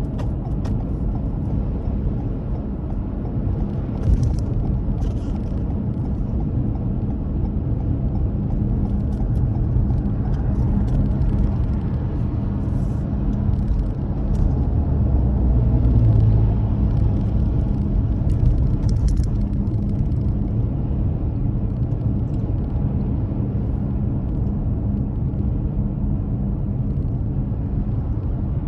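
Steady low rumble of a car driving, engine and tyre noise, with a few faint clicks here and there.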